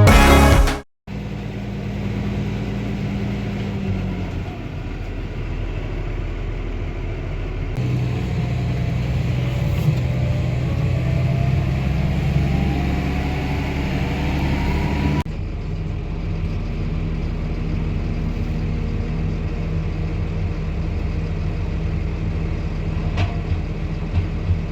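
Tractor engine running steadily while hauling a manure spreader. It is heard in three spliced shots, and in the middle one a faint whine rises.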